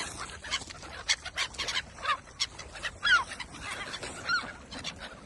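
Ducks and swans crowding for bread, giving a rapid run of short clucking calls and clicks, with a few short falling high notes about two, three and four seconds in.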